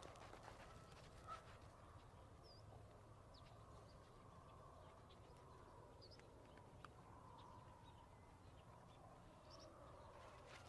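Faint outdoor background ambience with a few brief, high bird chirps scattered through it.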